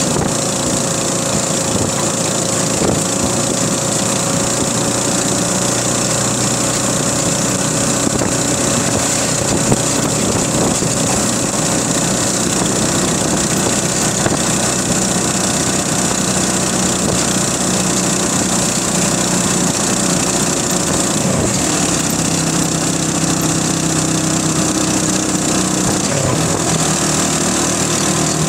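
Small motorcycle engine running while riding along at steady speed, with road and wind noise. About 21 seconds in, the engine note drops and settles lower.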